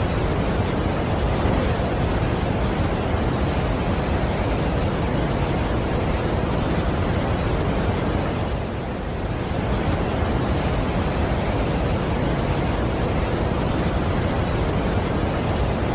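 Steady, dense rushing of a large waterfall, heaviest in the low end, softening briefly about nine seconds in.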